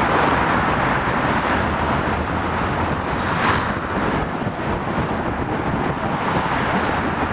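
Steady road traffic noise, a continuous rumble and hiss of passing and queuing vehicles.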